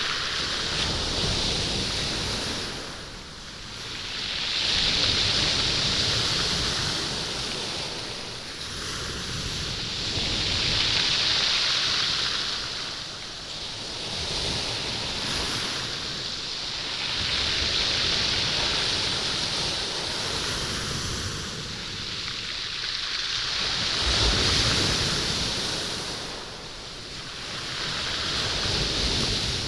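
Waves washing in and out over a stony beach, the stones rolling and rattling in the surf. It swells and ebbs in slow surges about every six seconds.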